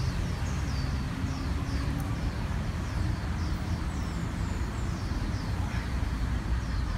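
Outdoor ambience: a bird's short high falling chirps repeated about twice a second over a steady low rumble.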